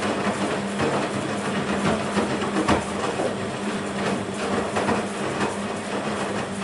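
BEKO WMB 51441 front-loading washing machine running, with a steady motor hum under a dense rushing noise and irregular light knocks.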